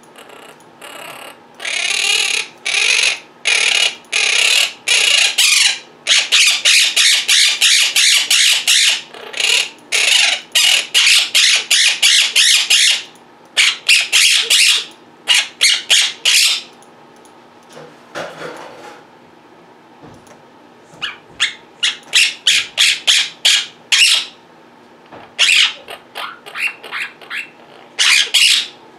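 Quaker parrots squawking in rapid runs of short, loud, high calls, several a second, with a break of a few seconds in the middle before another quick series.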